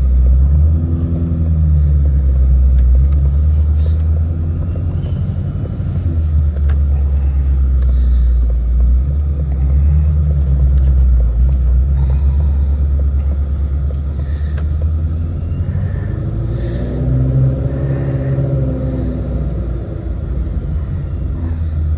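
Shelby GT350's 5.2-litre flat-plane-crank V8 rumbling while the car creeps along at low speed, heard from inside the cabin. The deep exhaust note is steady, with slight rises in pitch about a second in and again near the end.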